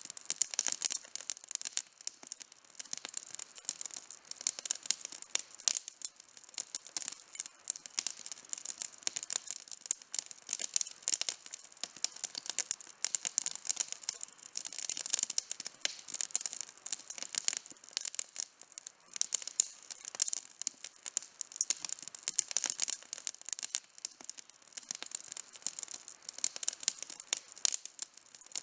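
Wood campfire burning with dense, continuous crackling and snapping, many small sharp pops a second.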